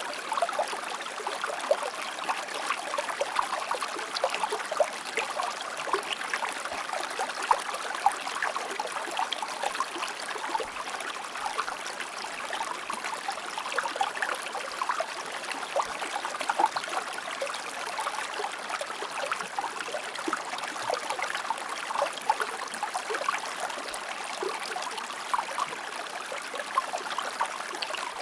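Shallow river flowing steadily, a continuous babbling rush of water full of small splashes and gurgles, with little deep rumble.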